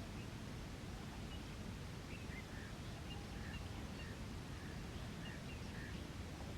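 Faint short bird chirps repeating every half second or so, over a steady outdoor background noise.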